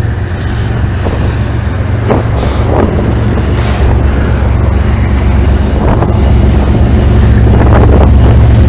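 Diesel freight locomotive engines running with a steady low rumble, growing louder as the train approaches, with wind buffeting the microphone.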